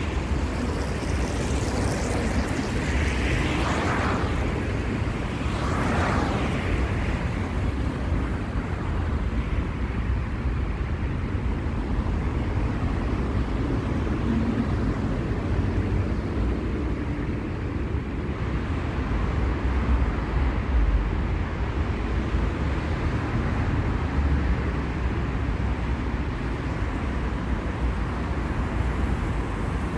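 Steady low rumble of city street traffic, with two vehicles passing close by within the first several seconds.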